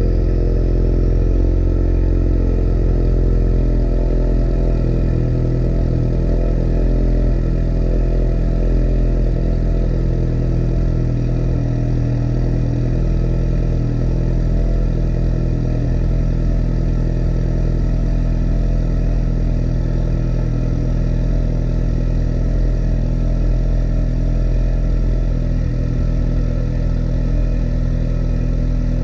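2017 Ford Mustang EcoBoost's 2.3-litre turbocharged four-cylinder idling steadily through a Milltek cat-back exhaust, with no revving.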